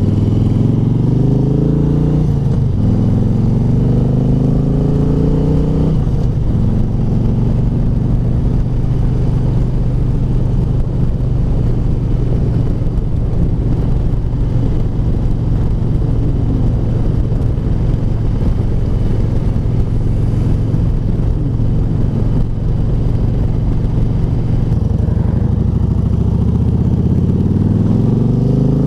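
Harley-Davidson V-twin running through American Custom slip-on mufflers fitted with quieter baffles. It pulls up in pitch twice in the first six seconds, drops after each climb as if shifting gears, holds a steady pitch, and then rises again near the end.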